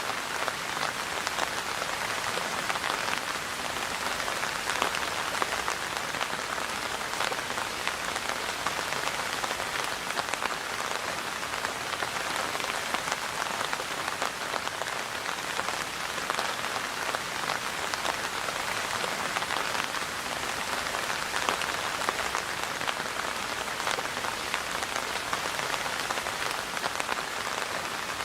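Steady rain falling, a continuous even patter of drops.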